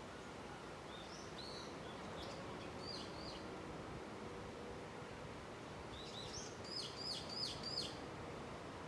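Small wild birds chirping: a few short high chirps, then a quick run of about six chirps near the end, over a steady outdoor hiss.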